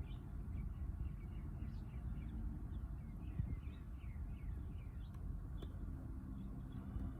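Small birds chirping in quick, short downward-sliding notes, many in a row, over a steady low background rumble.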